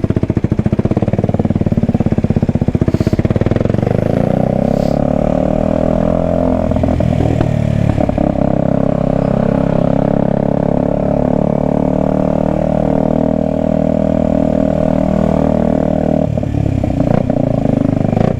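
Kawasaki Ninja 125's single-cylinder four-stroke engine and exhaust under way. The note rises as it pulls up through the revs a few seconds in, holds steady for a long stretch, then drops near the end as the throttle comes off.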